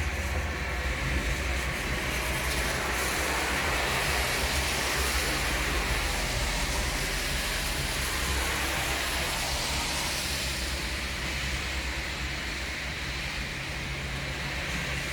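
Thunderstorm: a steady low rumble under an even hiss, with no sharp crack.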